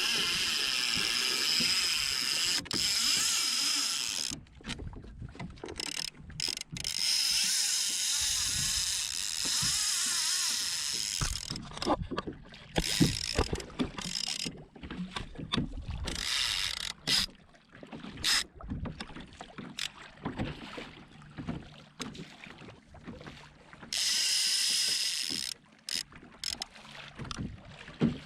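Fishing reel ratchet clicking in long stretches of a few seconds as line is worked, broken by pauses and sharp knocks.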